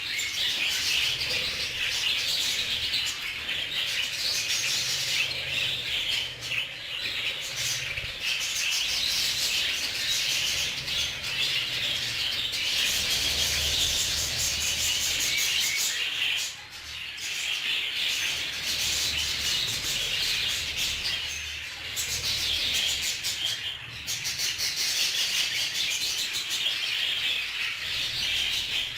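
A flock of budgerigars chattering and chirping all at once, a dense continuous twitter with brief lulls about 16 and 24 seconds in.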